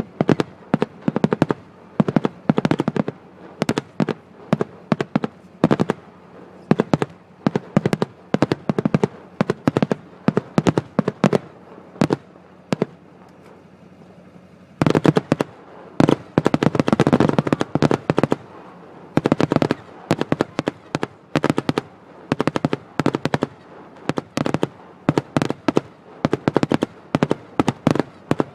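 Aerial fireworks display: rapid volleys of sharp bangs and crackling reports in dense clusters with brief lulls between. The thickest run of reports comes a little past the middle.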